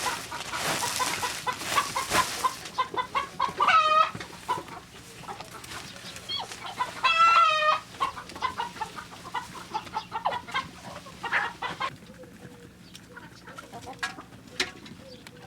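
Chickens clucking, with two loud drawn-out calls about three seconds apart. A rustling noise runs over the first couple of seconds.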